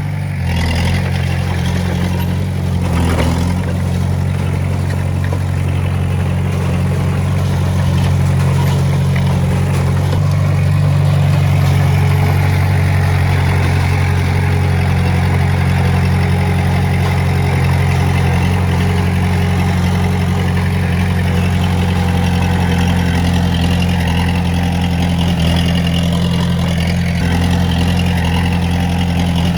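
Diesel engine of heavy earthmoving equipment running steadily, with a deep, even drone that swells slightly partway through.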